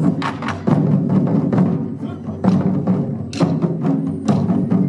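Japanese taiko drums played by an ensemble: heavy drum strikes in a driving rhythm, about three sharp hits a second over the low ring of the drums.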